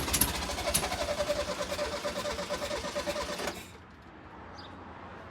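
Air-cooled flat-four engine of a 1973 VW Super Beetle turning over and running roughly, then cutting out about three and a half seconds in. The car is hard to start and needs a tune-up.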